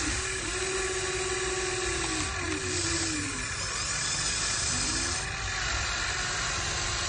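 Small electric motors and gearing of a radio-controlled toy excavator whining, the pitch bending up and down as the motors start and stop in short runs, over a steady hiss.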